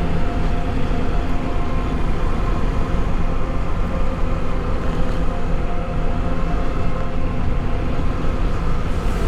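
Motorcycle engine running steadily while riding, with a dense low rumble of wind and road noise.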